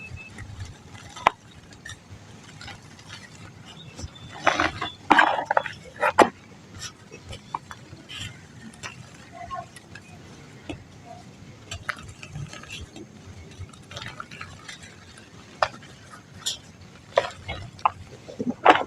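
Dry mud crumbling and crunching, irregular crisp crackles with a burst of louder crunches about five seconds in and more near the end.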